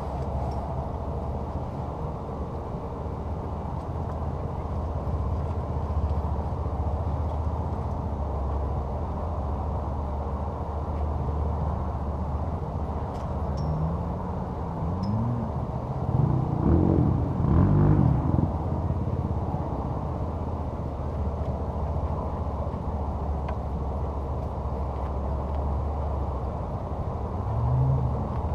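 Motor vehicle engines revving up and down over a steady low rumble, loudest about two-thirds of the way through and again briefly near the end.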